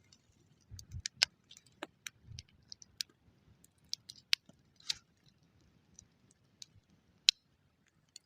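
Dry twigs snapping and crackling: irregular sharp snaps, about fifteen over several seconds, some loud and some faint, with a couple of dull low thumps.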